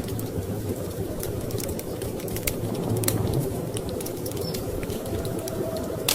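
Wood fire crackling with scattered sharp pops, one louder near the end, over a steady low rumble of storm wind.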